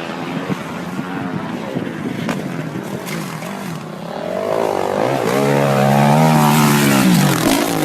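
Motocross bike engine revving, rising in pitch and getting louder about halfway through, held high for a couple of seconds, then easing off near the end.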